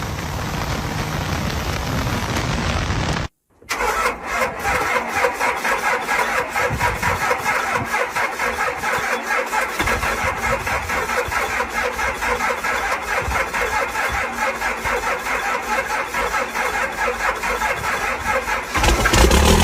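Diesel pickup truck engine running through a loud exhaust. After a brief cut about three and a half seconds in, it settles into a fast, even pulsing idle, then gets louder and deeper just before the end.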